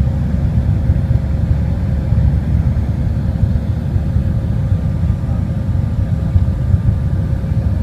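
Airliner cabin noise during the climb after takeoff: a steady low rumble from the engines and airflow, with a faint steady hum above it.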